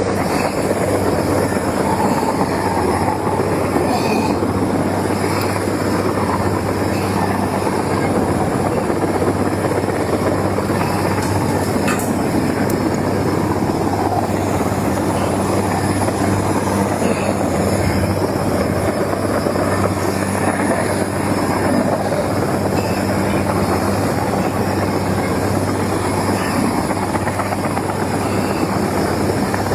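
Helicopter running steadily: a continuous drone of engine and rotor with a low, steady hum underneath.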